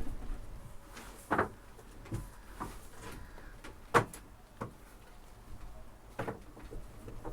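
A handful of separate knocks and clunks, about six in all, the loudest about four seconds in.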